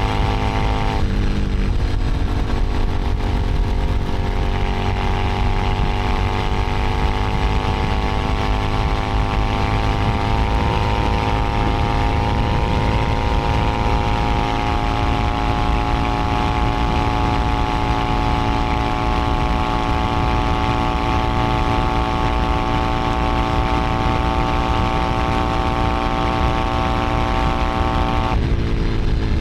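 Keeway SCR 250V motorcycle engine and exhaust while riding, the revs climbing slowly and steadily. The engine note changes abruptly about a second in and again near the end.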